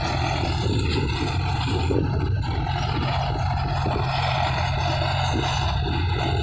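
A John Deere 5050D tractor's three-cylinder diesel engine runs steadily under load, driving a 7 ft rotavator that churns through the mud and water of a flooded paddy field.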